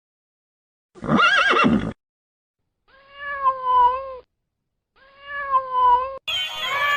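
A horse whinnies once, about a second in. It is followed by two drawn-out, slightly wavering calls from another animal, and music starts near the end.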